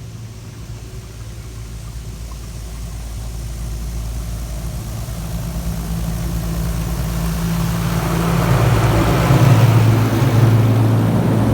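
High-pressure turbo-nozzle jets of a Mr Magic Storm rollover car wash spraying onto the car, heard from inside the cabin over a steady low hum. The spray grows steadily louder as the jets come over and is loud near the end.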